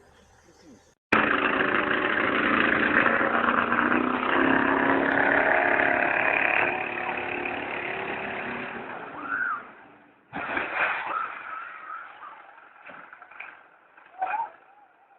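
Vehicle engine running with heavy noise, starting abruptly about a second in and fading after several seconds, then cut off. Short chirps and knocks follow near the end.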